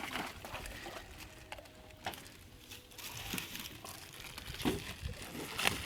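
Plastic bags of ice being handled and emptied into a water-filled truck box: crinkling plastic with a few sharp knocks, about two seconds in and twice near the end.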